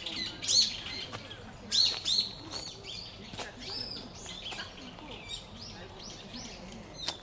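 Birds chirping: repeated sharp, arching chirps, loudest about half a second and two seconds in, with fainter chirps following.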